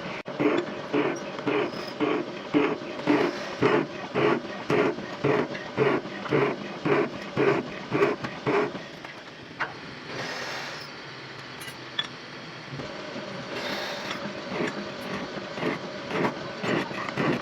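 Metal lathe running and cutting, with a rhythmic pulse about three times a second over a steady hum. The pulse fades for a few seconds midway and comes back near the end.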